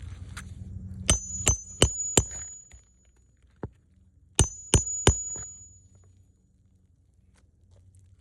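Hammer driving a roofing nail into a shingle: four quick blows, a light tap, then three more blows, each group leaving a bright metallic ring.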